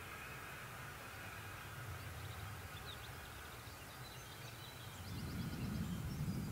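Faint rumble of a train dying away in the distance, with small birds chirping for a few seconds in the middle. About five seconds in, a louder low rumbling rises.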